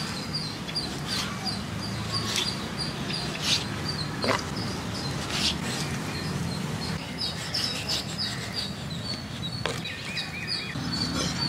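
Small birds chirping: quick runs of short, high chirps, one at the start and another from about seven seconds on, over low steady background noise. A few sharp knocks are scattered through.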